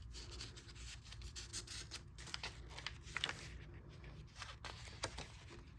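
Soft paper rustling with many small scratches and taps as the handmade junk journal's pages and tucked paper pieces are handled and turned.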